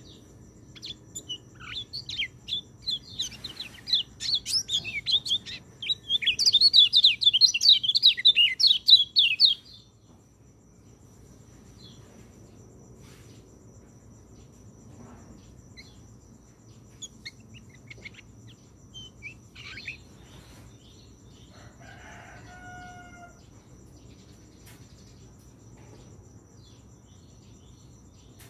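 White-eye (pleci) song: a fast run of high, twittering chirps that builds and is loudest in the middle, then breaks off into scattered faint chirps. A short, lower pitched call sounds about three-quarters of the way through.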